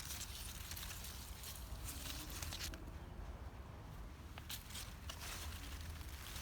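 Rustling and crackling of tomato plants being handled during picking, with scattered soft clicks, over a low steady rumble.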